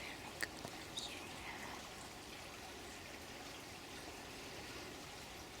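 Water trickling steadily, like a small stream, with a few sharp drips in the first second.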